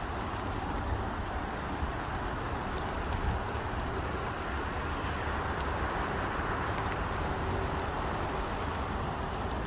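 Steady outdoor ambience: a low rumble of road traffic under an even hiss.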